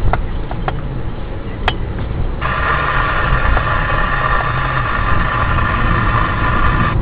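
Vehicle engine and road noise, a steady low rumble. About two and a half seconds in, a loud steady high tone of several pitches at once starts abruptly and holds until the end.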